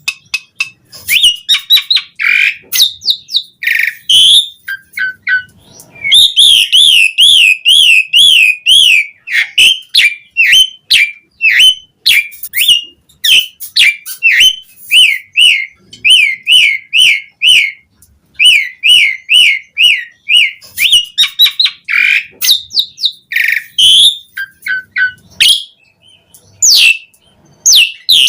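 Pied starling (jalak suren) singing a long, varied song of whistles, chirps and harsh squawky notes, with fast warbling trills and runs of quickly repeated short notes, broken by brief pauses.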